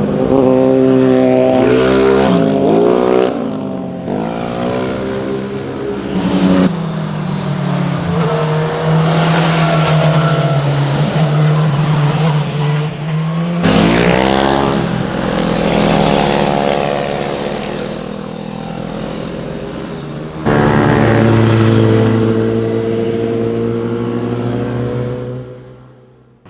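Sport motorcycles passing through corners one after another, engines revving up and down through the gears with rising and falling pitch; one holds a steady note for several seconds and another accelerates hard in a run of rising sweeps. The sound fades out near the end.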